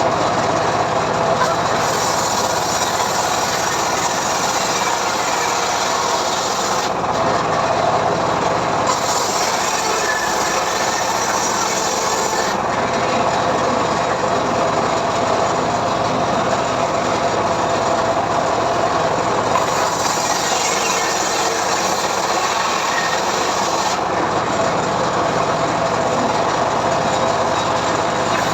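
Homemade srekel sawmill running, its saw ripping lengthwise through a mahogany log: a loud, steady sawing noise whose highest hiss comes and goes every few seconds.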